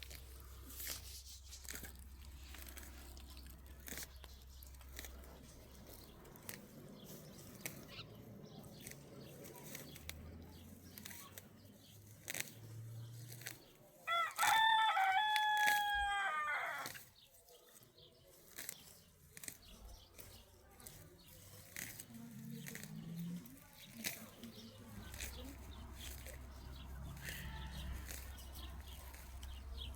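A rooster crowing once, a single stepped call lasting about three seconds, around the middle. Faint scattered clicks and a low rumble surround it.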